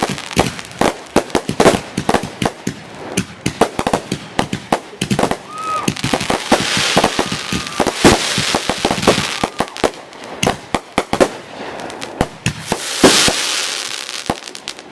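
Aerial fireworks going off in a dense barrage of rapid, overlapping bangs and crackles. A thicker crackling hiss builds in the middle, and the loudest moment comes about two seconds before the end.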